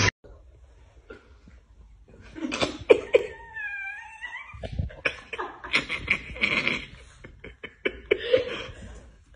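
A cat vocalising: a wavering, drawn-out meow about three and a half seconds in, among rough, breathy, cough-like sounds.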